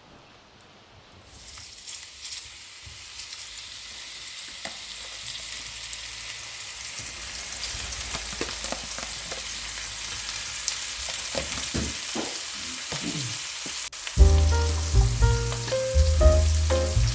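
Food sizzling in a hot frying pan, starting about a second in and growing steadily louder, with small crackles and pops. Music with a bass line comes in near the end.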